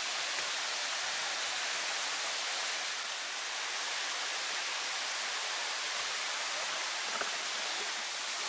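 Steady rushing of falling water at the Dzhur-Dzhur waterfall.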